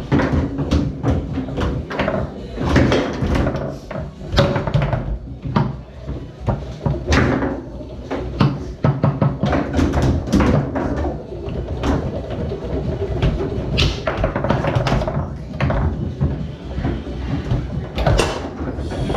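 Foosball in play on a Tornado table: irregular sharp clacks of the ball struck by the plastic men and hitting the table walls, with the rods knocking as they are spun and slid.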